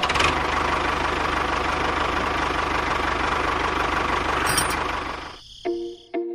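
A small motor runs steadily with a fast, even buzz, then winds down and stops about five seconds in.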